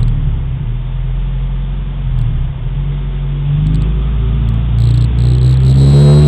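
Subaru WRX's turbocharged flat-four engine running with a steady low rumble, then revving up, its pitch climbing over the last two seconds or so.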